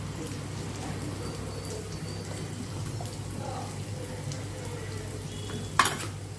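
Steady sizzling of food frying in a kadai, with one sharp knock near the end.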